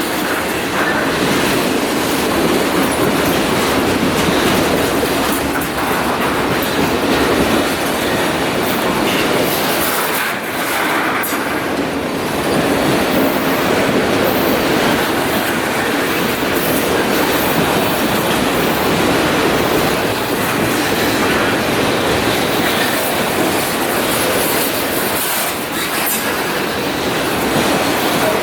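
Freight train cars rolling past on the track: a steady, loud rumble and rattle of wheels on rail.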